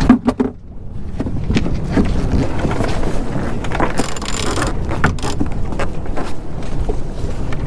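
Sailboat underway: steady low rumble of wind and water, with scattered clicks and knocks from the boat's fittings and a brief hiss about four seconds in.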